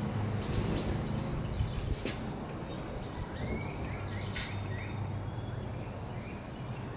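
A few short bird chirps, with light clicks and taps as a square is handled against the plexiglass canopy, over a steady low hum.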